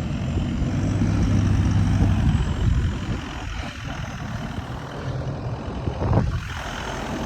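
Jeep Liberty's engine running as the vehicle manoeuvres through a turn on a mountain dirt track. It is loudest for the first two or three seconds, then drops back to a quieter, rougher rumble.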